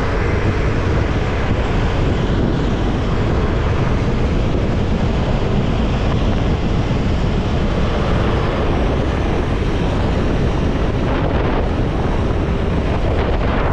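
Steady loud rush of wind buffeting the microphone on a moving motorcycle, with the bike's running noise underneath.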